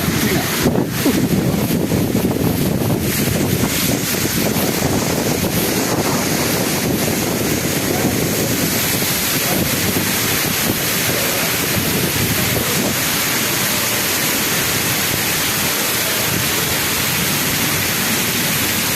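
Heavy rain falling, a steady dense hiss, with a few sharp taps in the first few seconds.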